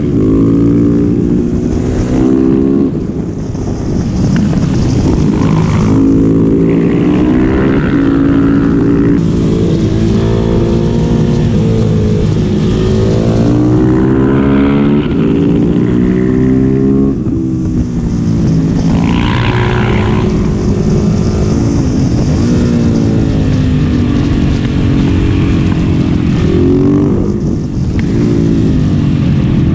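Single-cylinder supermoto motorcycle engine under way, its pitch climbing under throttle and dropping back again and again, as in accelerating through the gears and easing off.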